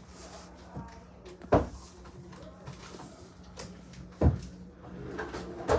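Three short, sharp knocks: one about a second and a half in, one a little after four seconds, and one near the end, over a low steady hum.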